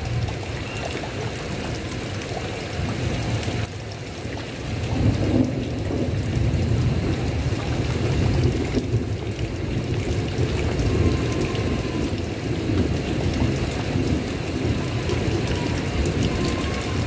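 Heavy rain falling steadily, with a continuous low, rolling thunder rumble beneath it. The rumble drops back briefly about three and a half seconds in, then swells again.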